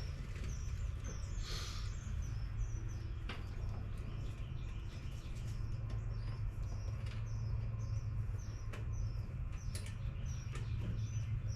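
Small bird chirps repeating about twice a second over a steady low rumble, with a few sharp clicks.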